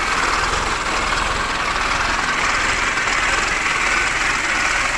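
Mahindra Arjun 555 DI tractor's diesel engine idling steadily.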